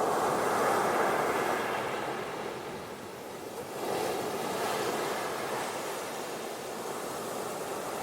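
Ocean surf breaking and washing up a beach in two surges, one right at the start and another about four seconds in, each swelling and then fading.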